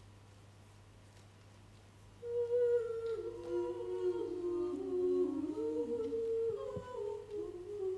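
A choir humming wordlessly in harmony, several voices holding long notes that move stepwise between chords, coming in about two seconds in after a quiet room.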